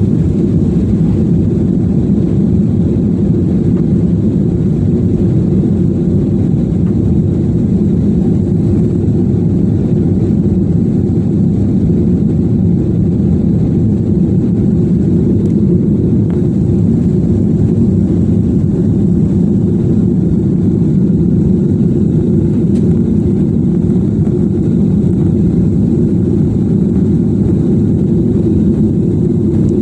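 Airliner's jet engines heard as a loud, steady low rumble that holds unchanged throughout.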